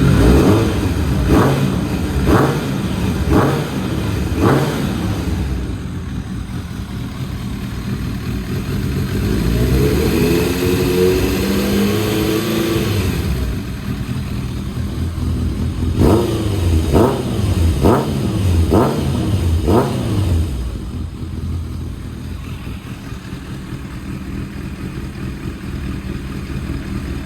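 Kawasaki ZRX1100's air-cooled inline-four engine breathing through a Devil full exhaust system, idling and revved. It opens with five quick throttle blips about a second apart and settles to idle. The revs are held up steadily for a few seconds in the middle, then come five more blips, and it drops back to idle near the end.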